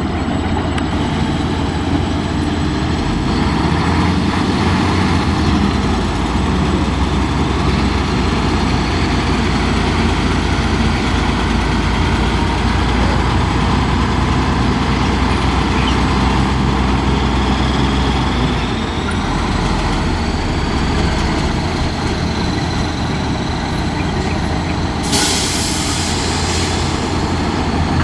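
Heavy Nissan Diesel truck engine running steadily with a deep rumble, easing a little about two-thirds of the way through. Near the end comes a short hiss about a second long.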